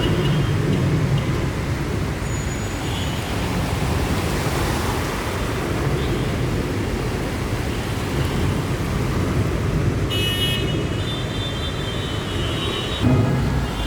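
Road traffic in a flooded-street jam: a steady rumble of engines and tyres, with a short high-pitched tone about ten seconds in.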